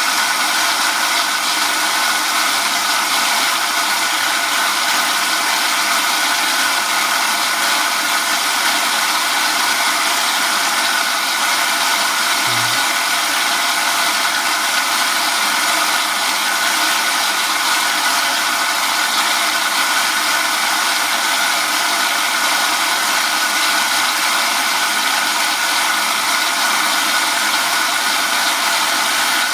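Zanussi Z913 washing machine drawing in water at the start of a 60°C colour wash: a steady rushing hiss that begins suddenly as the inlet valve opens.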